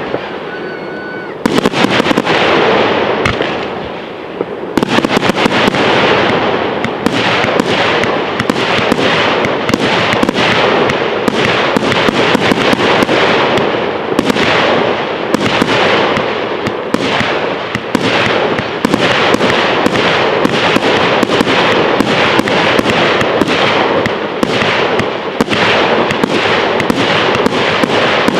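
Fireworks display going off in a dense, near-continuous barrage of bangs and crackling. It is briefly quieter for about the first second and a half before the barrage starts.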